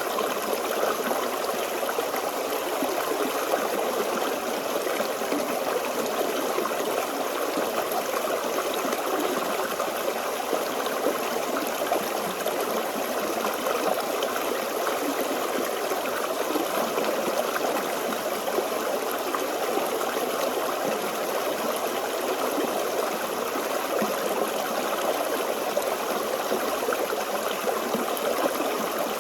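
Forest stream flowing over stones: a steady babbling and trickling of water that does not change.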